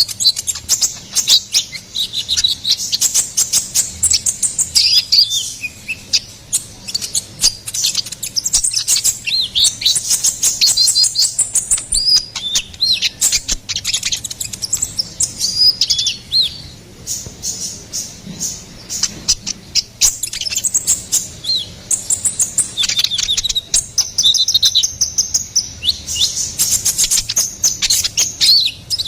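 Olive-backed sunbird (kolibri ninja) in full, vigorous song: a rapid, unbroken string of high chirps, trills and short falling whistled notes.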